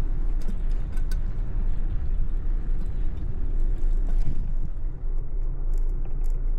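Steady low rumble of street traffic and riding noise on a city bicycle ride, with a few faint clicks about a second in.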